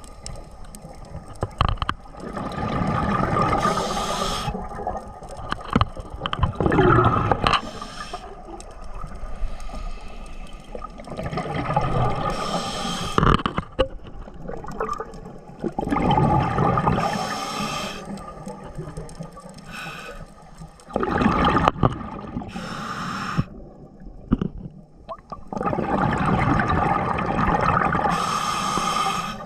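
Underwater breathing through a scuba regulator: a short hiss on each inhale, then a long gurgling rush of exhaled bubbles, repeating about every five seconds.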